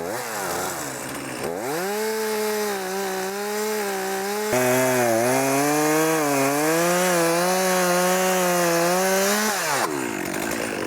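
Chainsaw cutting a tree trunk: a short rev at the start, then the saw winds up about a second and a half in, its pitch dipping and recovering as the chain works through the wood, and winds down near the end.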